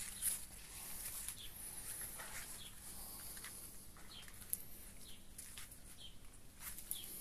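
Small birds chirping in short separate calls over a steady high-pitched hiss of outdoor ambience.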